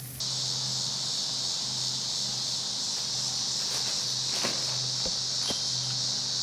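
A steady, high-pitched buzzing chorus of insects, with a couple of faint clicks around the middle.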